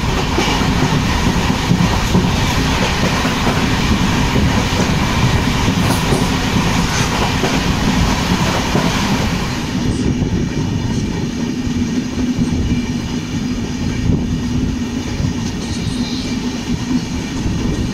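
Passenger train running, with a steady wheel-on-rail rumble and clickety-clack from the sleeper coach. About ten seconds in, the high hiss drops away and the sound turns duller.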